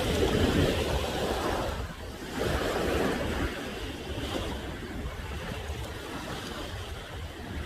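Ocean waves breaking on the shore, with two louder surges in the first few seconds, then a lower steady wash of surf.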